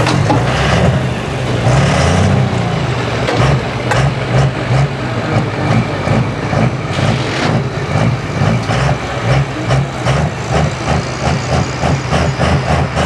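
Super stock diesel 4x4 pulling truck engine running loud, rising briefly in pitch about two seconds in, then settling into an even, pulsing run.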